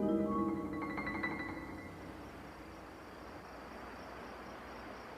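A few musical notes on a mallet instrument or keyboard die away in the first two seconds, then a steady chorus of night insects, crickets among them, takes over in the swamp.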